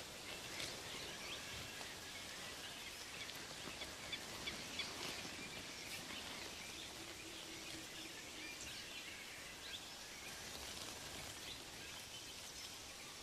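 Faint natural ambience: a steady hiss with many short, faint high chirps scattered through it.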